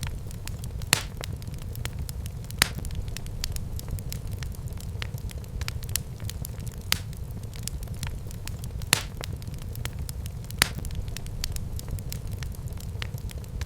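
Wood fire burning in a fireplace: a steady low rumble of flames under constant small crackles, with several louder sharp pops at irregular intervals.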